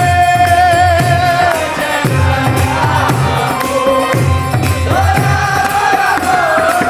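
Kirtan music: voices singing a held, wavering devotional melody over a steady low drum beat and jangling percussion.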